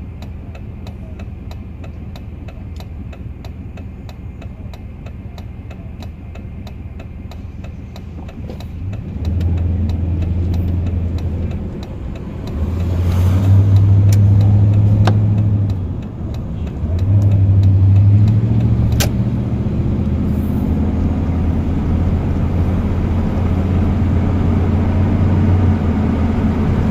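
Car engine heard from inside the cabin, running quietly with a regular ticking at first, then accelerating from about nine seconds in, the engine note dropping briefly twice as it shifts up through the gears.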